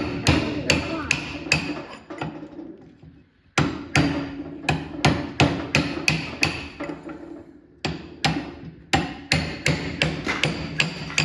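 Hammer blows on a stuck metal part of an old go-kart, about three strikes a second in three runs with short pauses between, each blow ringing. The part is seized and does not come loose.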